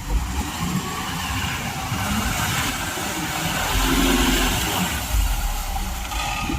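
Heavy diesel engine running under work, a low rumble with a broad hiss over it, swelling a little around the middle.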